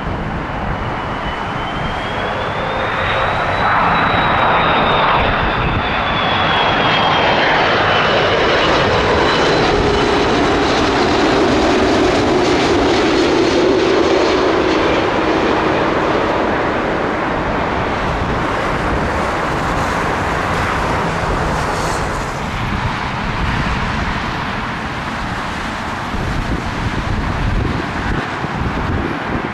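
Jet airliner passing low overhead on approach: a loud engine rumble with a high fan whine that rises and then falls in pitch as the aircraft goes by. It is loudest through the middle and fades toward the end.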